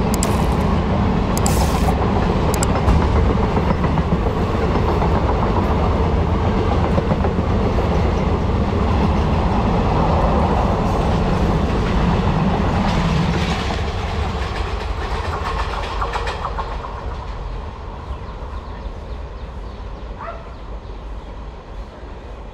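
Indian Railways passenger express coaches rolling past at speed, their wheels running over the rails in a loud, steady din. About two-thirds of the way through, the sound fades away as the last van passes and the train moves off.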